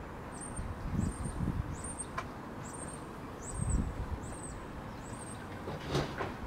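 A small bird repeating a short, high-pitched call about every half second, stopping about five seconds in, over wind rumbling on the microphone in gusts.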